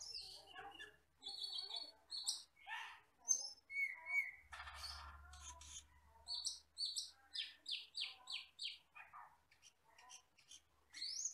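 Camperling (cucak keling), a glossy-black, red-eyed forest starling, singing a varied run of short chirps and sharp whistled notes. About four seconds in comes a harsh rasping note, and after it a quick series of rising whistles.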